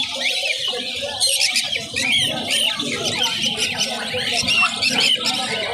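Many caged birds chirping and chattering at once: a dense, overlapping chorus of short high calls.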